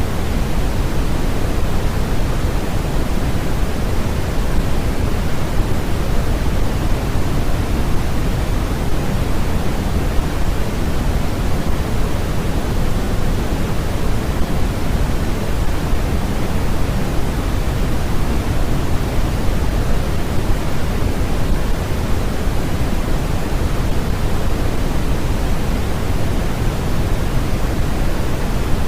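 Steady synthetic noise played for sleep and focus: an even, unbroken hiss with more weight in the low rumble than in the highs.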